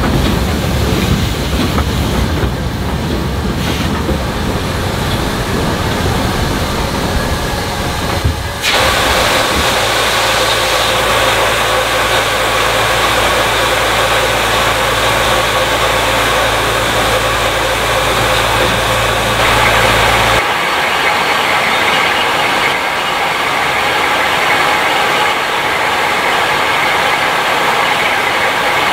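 Steam-hauled train running, heard in three shots cut together: first a rumbling, clattering passage, then a steady low hum under a hiss, then a brighter hiss without the hum.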